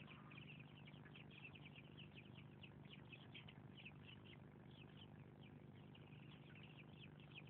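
Faint chirping of birds, many short calls a second, over a low steady hum.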